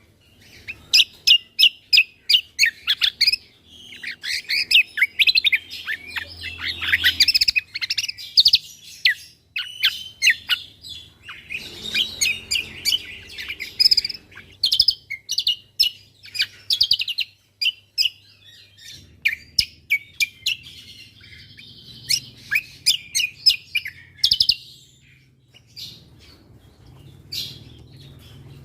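Cucak kombo (kecial kombo) songbird singing in rapid runs of sharp, high chirps and quick whistled sweeps, the fast 'tembakan' fills used to train other songbirds, with a brief pause about two thirds of the way in.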